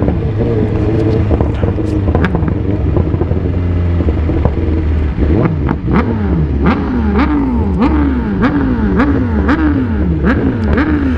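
BMW S1000RR inline-four sport bike with an open aftermarket exhaust running at low speed, then from about halfway through blipping the throttle in quick rising revs, roughly two a second. Sharp pops and bangs from the exhaust come throughout.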